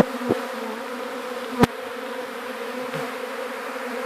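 Honeybee swarm buzzing in a steady, even hum, with a few short sharp knocks near the start and about a second and a half in.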